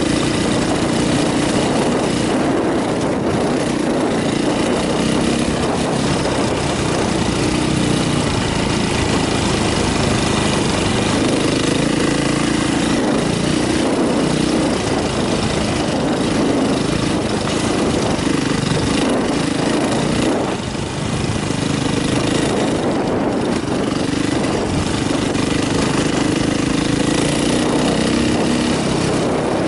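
KTM dirt bike engine running under a changing throttle while being ridden over a rocky trail, its pitch rising and falling, with a brief drop about twenty seconds in. Wind rushes over the onboard microphone.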